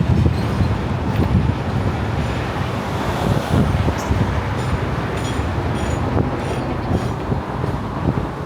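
Steady low rumble of city traffic, with a run of short high ticks in the middle.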